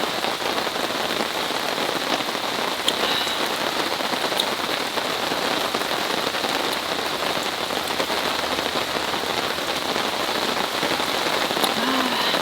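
Heavy rain falling steadily, pouring down like crazy, with a few faint ticks about 3 and 4.5 seconds in.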